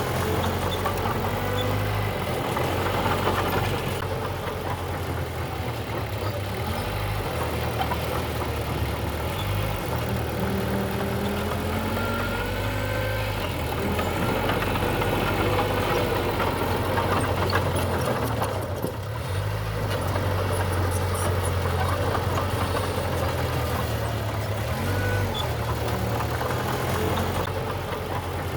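Diesel engine of heavy earthmoving machinery running, its note stepping up and down every few seconds as the load and throttle change.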